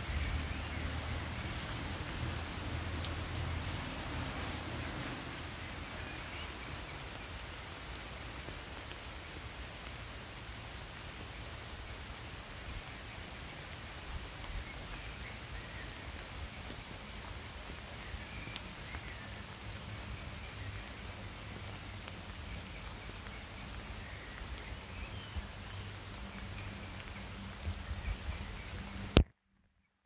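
Small songbirds chirping in short, repeated high phrases over a steady outdoor hiss on a wet street, with a low rumble in the first few seconds. Near the end a sharp click, then the sound cuts out suddenly.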